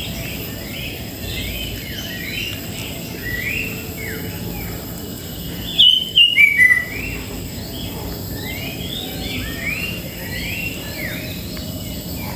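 Songbirds chirping continuously in short, curved notes several times a second, with a brief louder cluster of sharp calls about six seconds in.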